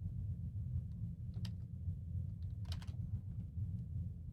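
A few scattered computer keyboard clicks, the clearest about a second and a half in and a short cluster near the end, over a steady low hum.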